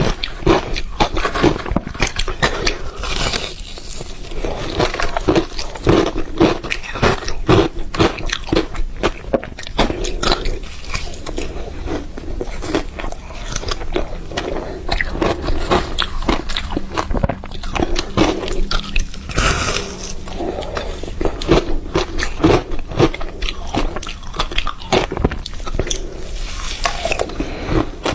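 Ice being bitten and chewed: continuous crunching and cracking, many sharp crunches a second.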